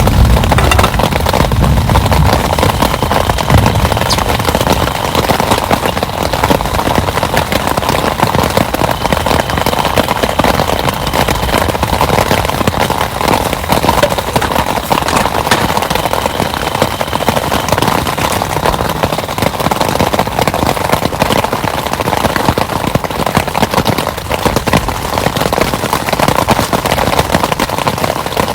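Heavy rain falling steadily, a dense patter of drops close to the microphone. A low rumble dies away over the first few seconds.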